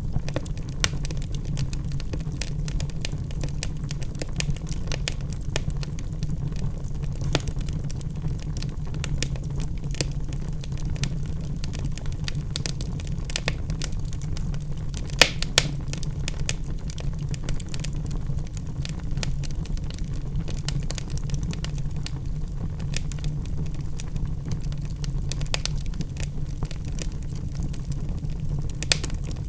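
Wood fire burning in a fireplace: a steady low rumble of flames with dense crackling of the logs and a few sharper pops about halfway through.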